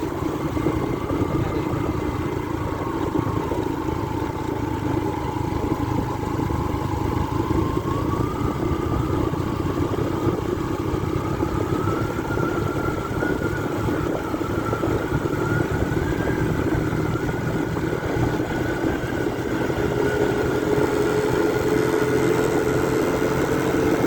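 Motorbike engine running steadily under way. Its note climbs gradually over a few seconds about a third of the way in, then holds at the higher pitch.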